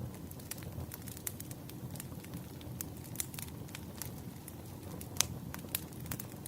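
Wood fire crackling: a steady low rumble under scattered sharp snaps and pops, the loudest a little after five seconds in.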